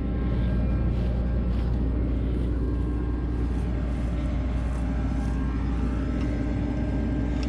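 Farm machinery's diesel engine running steadily at idle: a deep, even hum with faint steady tones above it.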